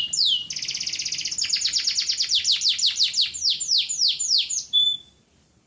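Male canary singing. A fast, buzzing trill gives way to a run of quick falling sweeps, and the song ends on a short held note about five seconds in.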